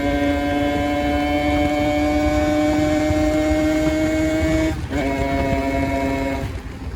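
Kawasaki Ninja 150 RR single-cylinder two-stroke engine pulling under load, its note rising slowly. About five seconds in it shifts up a gear, the note dropping and climbing again, then it falls away near the end.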